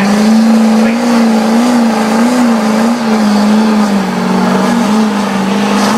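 Big mud truck engines running at high revs under load in a tug-of-war pull, the pitch held nearly steady with small wavers and sagging slightly about four seconds in.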